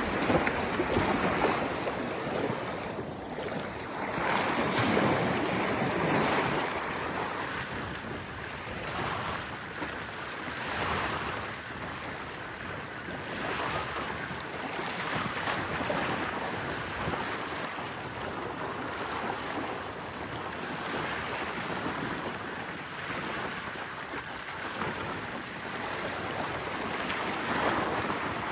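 Sea waves breaking and washing in, the rush swelling and easing every few seconds.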